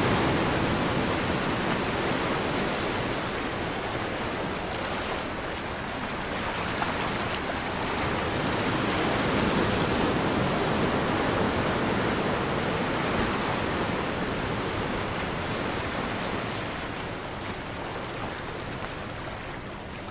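Ocean surf washing steadily, swelling and easing slowly in loudness and fading down near the end.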